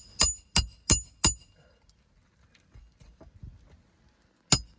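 Hammer driving roofing nails into an asphalt shingle: a quick run of about five sharp blows with a bright metallic ring, a pause, then two more blows near the end.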